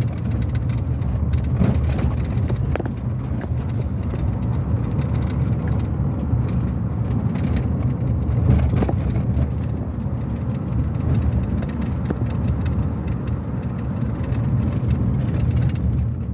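Car driving slowly along a road: steady low engine and tyre rumble, with a few scattered knocks.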